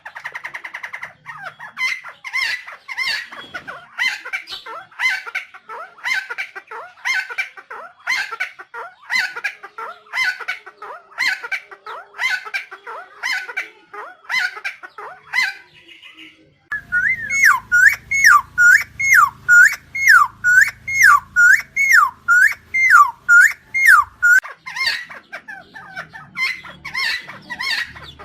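Helmeted friarbird calling: a fast run of repeated harsh notes, then from about halfway a louder series of down-slurred notes at about two a second, and near the end the fast notes again.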